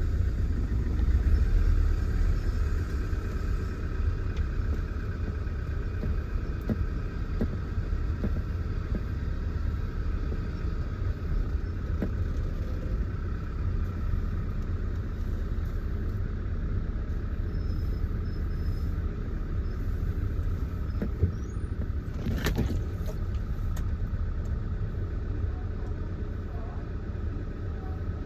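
A vehicle's engine running at low speed with a steady low rumble while driving slowly, with one sharp knock about two-thirds of the way through.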